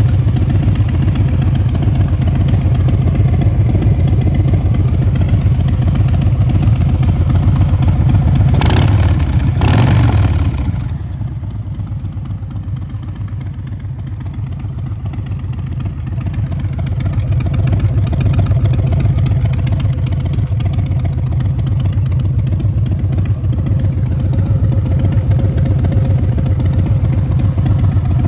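Harley-Davidson Breakout 114's Milwaukee-Eight 114 V-twin engine idling. It gets two short blips of the throttle about nine and ten seconds in. It then sounds quieter for several seconds before growing back to its earlier level.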